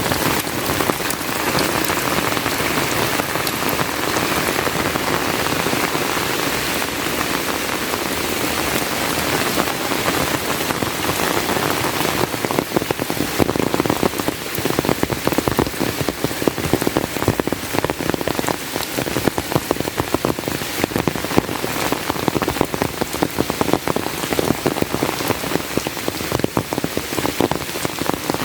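Heavy rain falling steadily, a dense even hiss of rain on surfaces; from about halfway through, the patter of individual drops grows sharper and more uneven.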